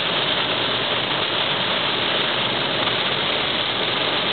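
Heavy rain on a moving car together with its tyres on the soaked road, heard from inside the cabin as a steady, unbroken rush of noise.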